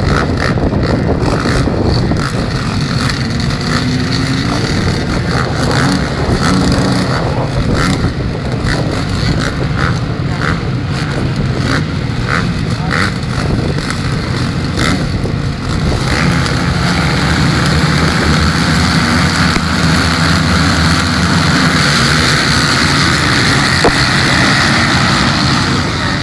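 Motocross motorcycle engines running and revving on the track, the noise growing stronger and brighter past the middle.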